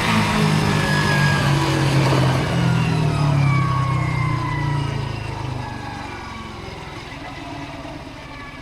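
Motorcycle engine running and slowing down, its pitch falling gradually. It gets quieter about halfway through as it rolls off.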